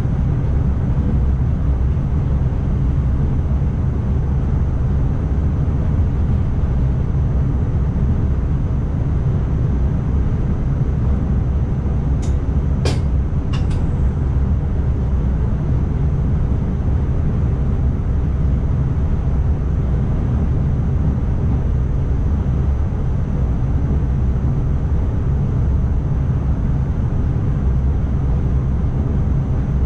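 Steady low rumble of an ICMm electric multiple unit running along the track, heard from inside the driver's cab. Three short, sharp clicks sound about halfway through.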